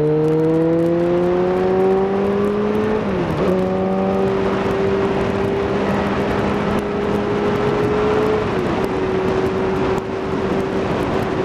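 Kawasaki ZZR600 inline-four engine accelerating through the gears, its pitch climbing for about three seconds, then two brief dips for upshifts, about three and eight seconds in, before settling to a steady cruise. Wind rushes over the helmet-mounted microphone throughout.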